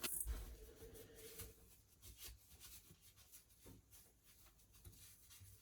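Faint rubbing and light scraping of hand work on the shower tray's edge while black silicone sealant is run along it; a short scrape right at the start, then soft scattered rubs.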